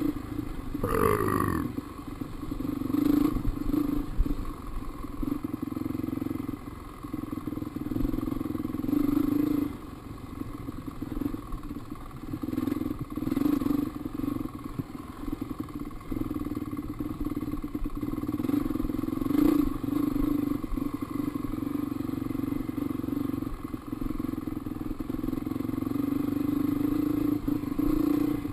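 Dirt bike engine running under a rider, the throttle opening and closing so the engine note swells and eases every second or two, which the rider worries comes from valves going bad. About a second in there is a brief falling squeal.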